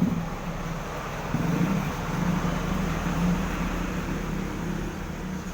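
Small DC motor spinning a wire that flicks rapidly against a strip of drink can, giving a steady buzzing rattle meant to imitate a diesel engine idling.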